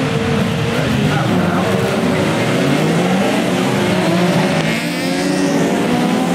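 A field of racing sports and saloon cars accelerating together at the race start, many engines running at once, their pitches climbing and dropping back at gear changes.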